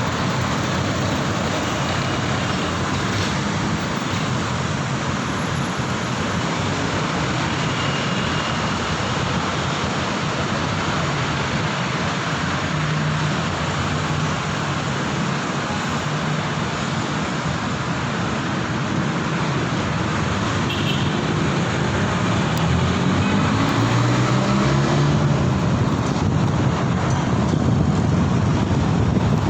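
City road traffic with a steady rush of road and wind noise, heard on the move. About two-thirds in, a nearby vehicle's engine rises and falls in pitch as it speeds up, and the traffic grows a little louder near the end.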